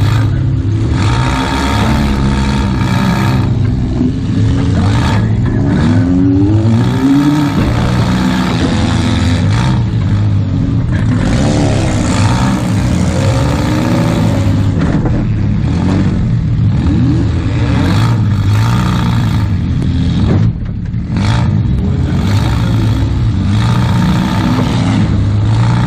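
Demolition-derby Toyota Camry's engine revving up and down under throttle, heard loud from inside the stripped cab, with a brief easing of the throttle about two-thirds of the way through.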